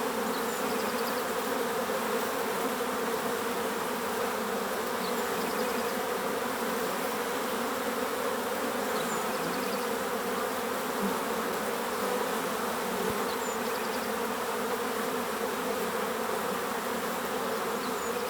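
A swarm of bees buzzing in a steady, unbroken drone. Faint high bird chirps come in every few seconds.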